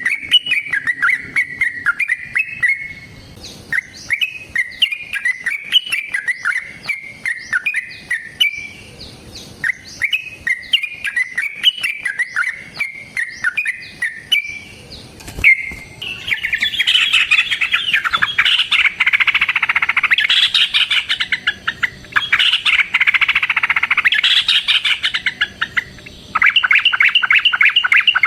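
Yellow-vented bulbul (trucukan) singing: short bubbly chirping phrases for about fifteen seconds, then, after a single click, a long, loud, rapid trilling chatter that runs on in fast even notes.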